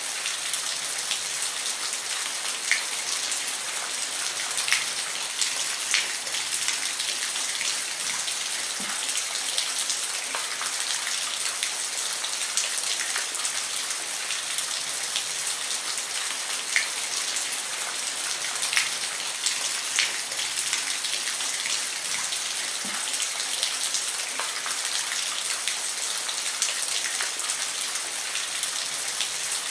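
Steady rain falling on a roof: an even hiss, with individual drops landing in sharp, irregular ticks.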